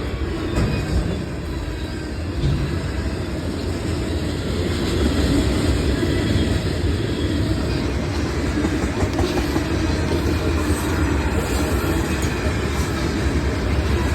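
Manifest freight train passing close by at speed: a steady rumble and rattle of wheels on rail, getting a little louder about five seconds in.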